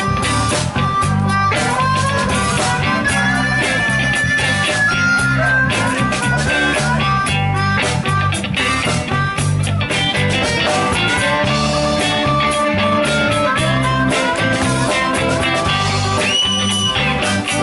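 Live band playing an instrumental break: a lead guitar solo with bending, held notes over bass and drums.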